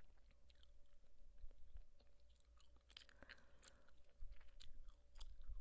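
Gum chewing close to the microphone: soft, irregular wet clicks and smacks of the mouth working a piece of gum.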